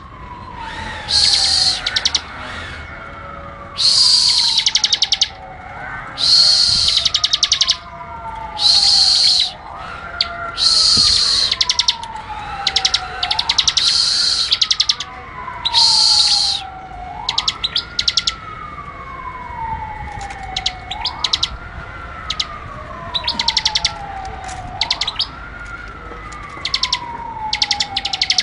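Bar-winged prinia (ciblek) singing in loud, rapid, high chattering bursts about a second long, repeated every couple of seconds, which break into scattered quick ticks in the second half. Beneath it a lower whistle rises sharply and then slides down, over and over, every few seconds.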